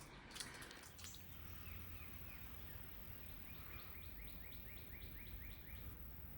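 A songbird singing a run of quick, downward-slurred whistled notes, about four a second, that stops near the end. A few spaced notes come first. A few light crackles of brush or footsteps fall in the first second, over a faint low outdoor rumble.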